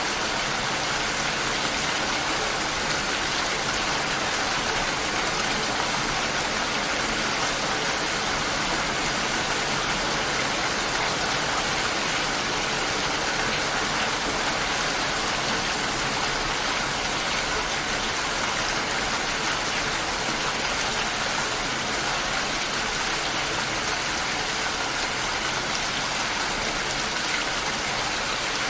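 Steady light rain falling, an even hiss of drops that holds level without pauses or thunder.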